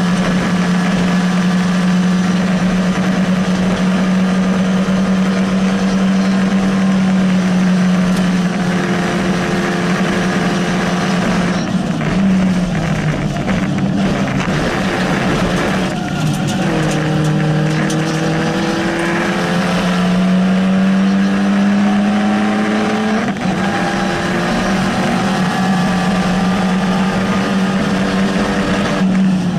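Rally car engine running hard at high revs, heard from inside the cabin. It holds a steady pitch, dips briefly twice, then climbs in pitch as the car accelerates through a gear, with a gear change about two-thirds of the way in.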